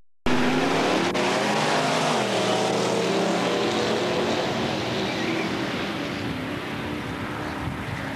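Loud car engine at a drag strip, cutting in abruptly a quarter second in, its pitch dropping over a second or so about two seconds in, then fading into a steady rush of engine and wind noise.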